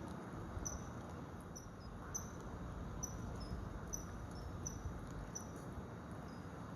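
Common kingfisher giving short, high-pitched chirping calls, about two a second, over a steady low background hiss.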